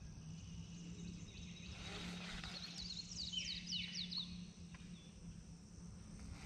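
A bird singing a quick run of about ten high, falling notes about three seconds in, over a faint steady low hum.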